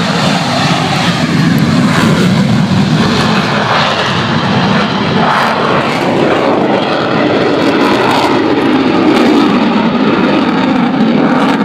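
Eurofighter Typhoon FGR4 fast jet in flight, the noise of its twin jet engines loud and steady, swelling slightly now and then.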